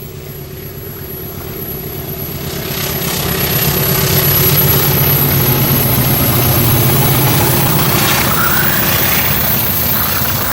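Diesel locomotive-hauled passenger train approaching and passing, its engine rumble growing louder over the first few seconds and then holding steady. Brief rising squeals come in near the end.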